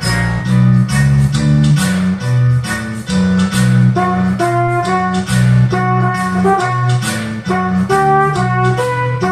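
Band backing track playing the instrumental intro of an anime ending theme: a busy bass line, guitar and drums in a steady beat.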